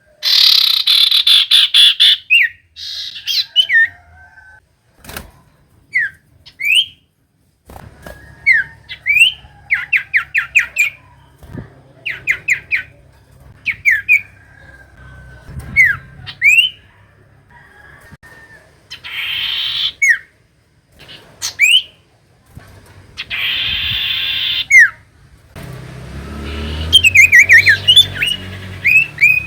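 Common iora (cipoh) calling: short rising whistled notes, quick runs of sweeping chips and harsh buzzy chatters, ending in a fast trill over a low rumble. These are lure calls meant to make a silent iora answer.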